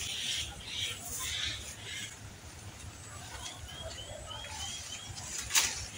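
A small bird chirps a quick run of five short rising notes, over a hiss that pulses about twice a second and fades after the first couple of seconds. A single sharp snap or click comes near the end and is the loudest sound.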